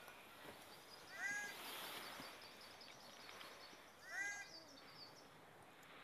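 Male bird-of-paradise calling: a short, arched call that curves downward, given about a second in and again some three seconds later.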